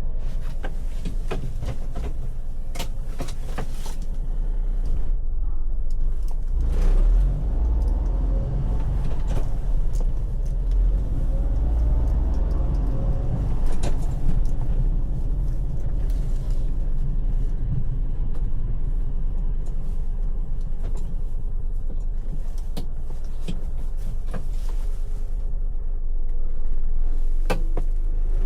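Honda Acty mini truck's 660cc three-cylinder engine running under way, with heavy low road rumble, engine pitch rising and falling with speed and a few clicks and rattles; the revs climb near the end.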